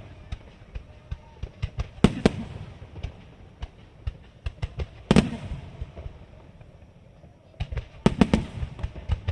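Aerial firework shells bursting overhead in a rapid series of sharp booms and crackles. The heaviest bursts come in clusters about two, five and eight seconds in.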